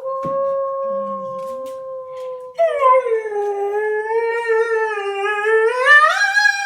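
Dog howling on cue, following a person's long steady howl. About two and a half seconds in, the dog's howl starts, wavering and rich, and rises in pitch near the end.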